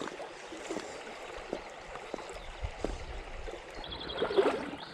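Small river running high after floods, its water rushing steadily, with a few small knocks and a brief louder burst about four seconds in.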